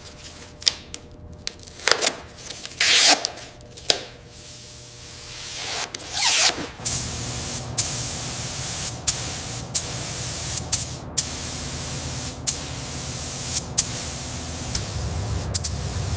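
Compressed-air spray gun hissing, first in a few short bursts and then more steadily from about seven seconds in, broken by several abrupt cuts, over a low steady hum.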